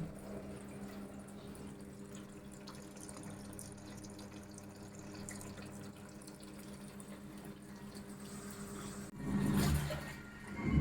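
Water running from a tap or pipe into a washing machine, with a steady low motor hum underneath. About nine seconds in, a louder rushing sound starts.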